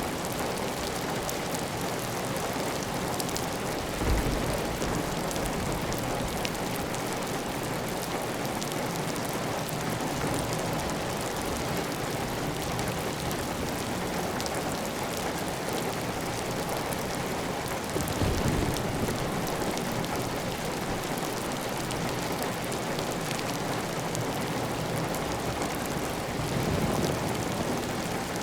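Steady heavy rain on a clay tile roof, with water running off the roof edge. There are three brief deeper surges: about four seconds in, just after halfway, and near the end.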